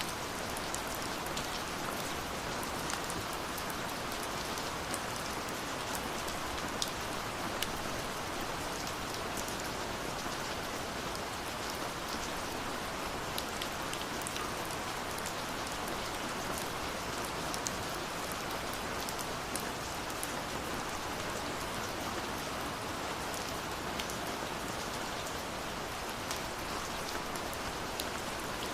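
Steady rushing of a waterfall, mixed with the scattered small pops and crackles of a burning wood fire.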